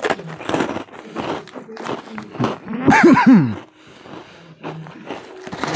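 Crunchy snack fries being bitten and chewed close to a clip-on microphone, with many short crunches. About three seconds in, a brief throaty vocal sound in two parts, each sliding down in pitch, is the loudest moment.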